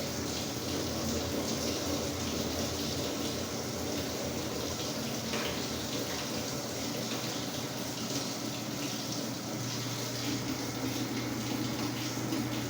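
Samsung WA45T3200AW top-load impeller washer with water rushing steadily in its tub over a low hum.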